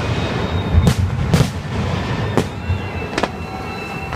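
Fireworks display: four sharp bursts about a second apart over a steady low rumble.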